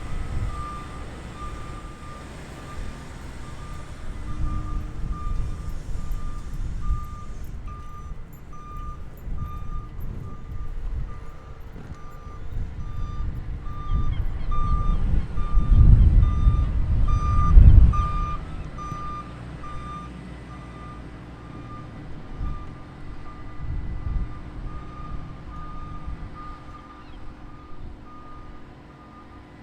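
A vehicle's reversing alarm beeping at an even pace, over wind buffeting the microphone in strong gusts that peak about halfway through.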